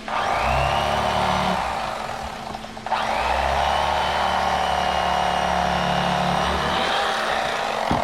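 Electric fillet knife running in two bursts while cutting fish. Each burst starts with a rising whine as the motor spins up and then holds steady. The first burst lasts about three seconds, and after a short break the second runs about four seconds.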